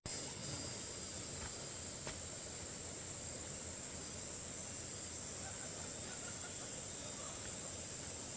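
Steady high-pitched insect chorus, a continuous shrill drone that holds one pitch throughout.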